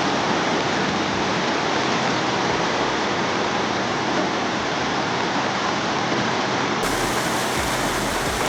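Steady rushing noise like fast-running water, with a slight change in its sound near the end.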